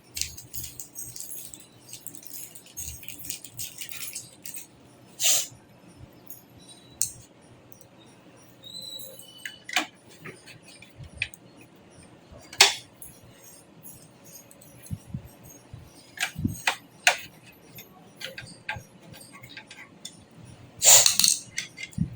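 Handling of desktop PC parts and hardware: scattered clicks, clinks and light metallic rattles, with a few sharp knocks and a louder rattle of about a second near the end.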